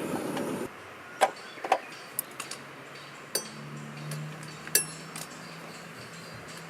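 Scattered light clinks and taps of small hard objects being handled, around eight over several seconds, after a steady rushing noise cuts off abruptly in the first second.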